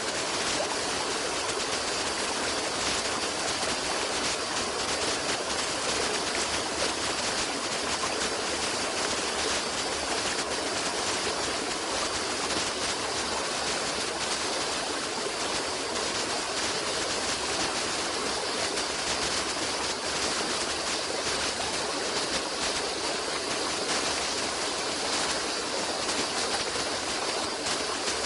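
Stream water running steadily, an even rush of flowing water.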